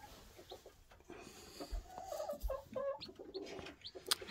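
Chickens calling: short high peeps from newly hatched chicks, with a run of lower clucking calls in the middle. There is a sharp knock near the end.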